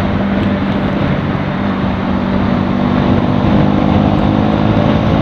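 Bajaj Pulsar NS200's single-cylinder engine running at a steady road speed in traffic, over a constant rush of noise. Its pitch and level rise a little about halfway through.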